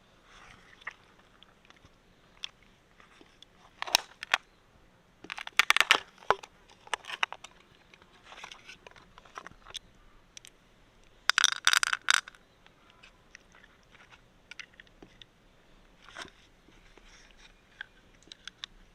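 Hard mussel shells clicking and crunching as they are handled, in a few short bursts of sharp clicks with single clicks between.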